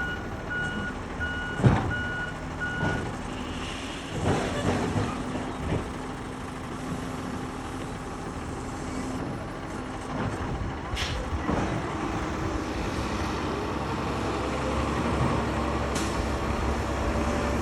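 Garbage truck with its reversing alarm beeping at an even pace, stopping about three seconds in, over its running engine. A few sharp noises follow as the truck works on.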